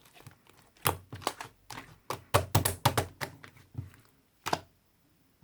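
An irregular run of sharp taps and clicks from hands handling small objects on a hard surface, a dozen or so in quick succession, then one last click near the end.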